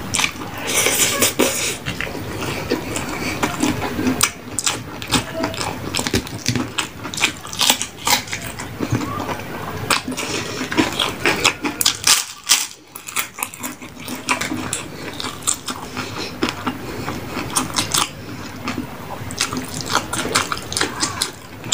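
Close-miked eating sounds: chewing, lip smacks and wet mouth noises, with many short sharp clicks throughout and a brief lull about halfway through.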